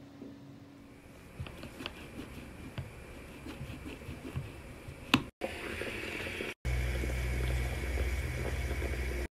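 Light taps and clicks of kitchen work, then, after a cut, a small appliance starts running with a steady low hum and a thin high whine.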